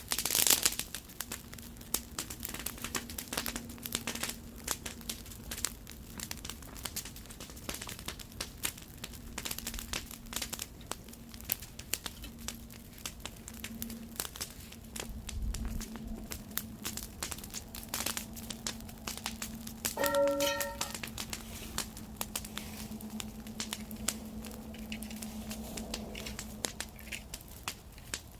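Wood campfire crackling, with many irregular sharp pops and snaps and a louder burst of pops at the start. A steady low hum runs underneath, and a short pitched tone sounds once a little past two-thirds of the way through.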